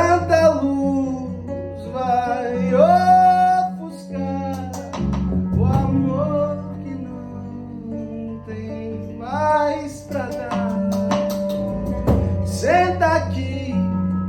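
A song performed live: a voice singing long, wavering phrases over plucked acoustic guitar.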